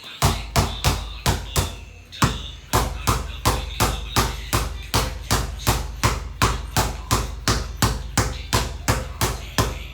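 Basketball dribbled steadily on a hard floor, a sharp bounce about three times a second.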